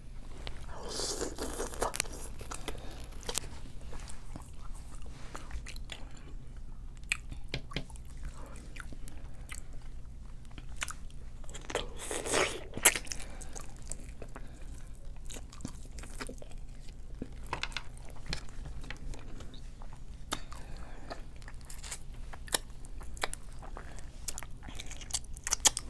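Close-up mukbang eating sounds of seafood boil being bitten and chewed, with many short wet clicks and crackles as pieces of crab and shrimp are picked apart by hand and put in the mouth.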